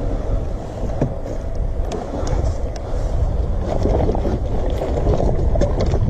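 Motorcycle engine running under way, with heavy wind buffeting on the microphone.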